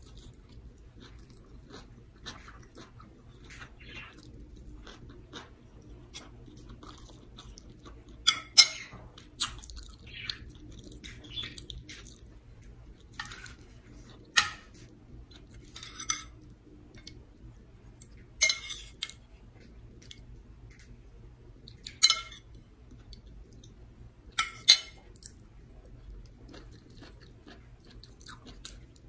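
A person chewing and eating vegetables and rice, with about ten sharp, short crunches and mouth clicks scattered through.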